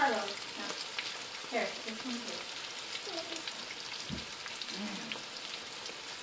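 Morel mushrooms frying in bubbling fat in a nonstick pan: a steady sizzle with fine crackles.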